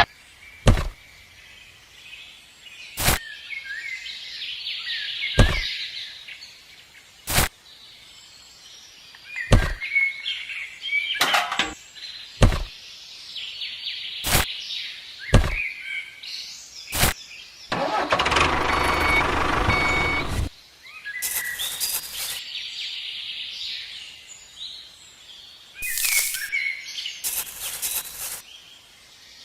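Small birds chirping and twittering, broken about every one to two seconds by a sharp click. A louder burst of rushing, motor-like noise lasts a couple of seconds about two-thirds of the way in.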